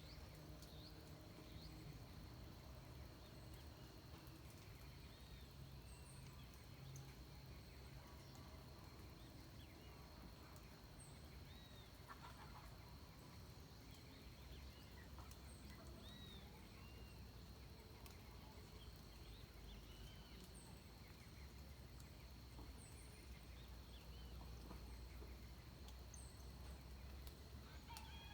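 Faint dawn birdsong in Atlantic forest: scattered short, high chirps every few seconds over a steady thin high-pitched drone and a low rumble.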